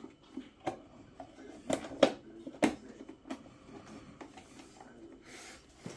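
Sharp clicks and light knocks of small parts and tools being handled during boiler repair work: about six, spread irregularly, the loudest about two seconds in, then a short soft rustle near the end.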